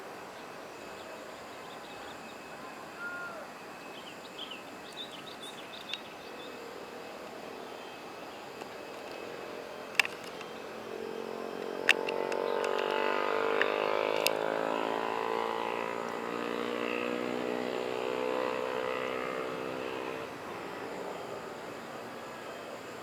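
Jet airliner passing by, its engine noise swelling about halfway through and fading away over the next several seconds. A couple of sharp clicks come just before it grows loud.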